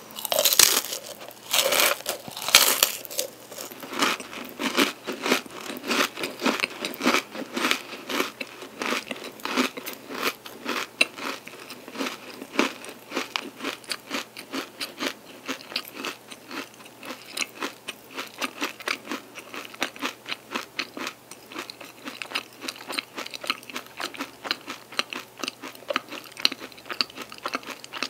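A person biting into a crunchy chocolate-and-almond-coated pastry stick, with loud crunches in the first few seconds, then steady crunchy chewing.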